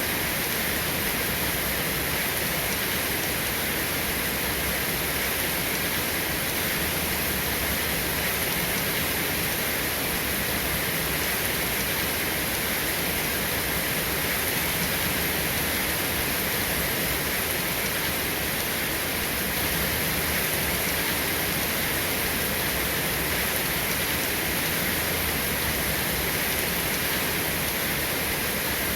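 Steady rain, an even hiss with no thunder and no single drops standing out.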